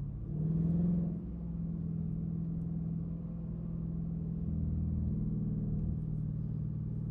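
Straight-piped Dodge Durango exhaust running at low engine speed, with a brief rise in revs about half a second in that settles back into a steady, deep drone.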